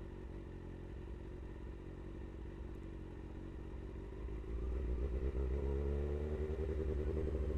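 Kawasaki ZX-6R 636's inline-four engine running steadily at low revs, then about four and a half seconds in it gets louder and rises in pitch as the revs climb.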